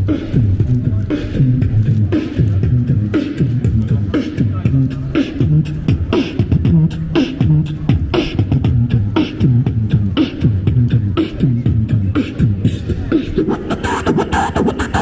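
A street performer beatboxing: a steady beat of deep bass hits with sharp snare-like clicks made with the mouth.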